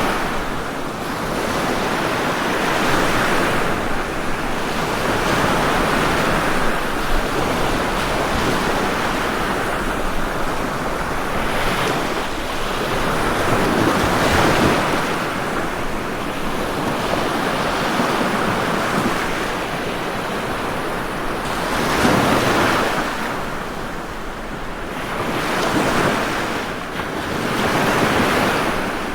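Ocean waves breaking and washing on a shore: a continuous rushing surf that swells and ebbs every few seconds as each wave comes in.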